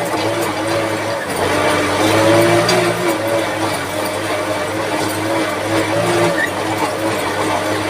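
Kubota tractor's diesel engine running steadily, its pitch wavering slightly.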